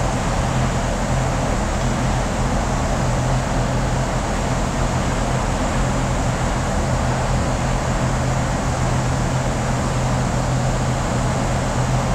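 Steady mechanical running noise with a constant low hum, unchanging throughout, like a motor or engine held at one speed.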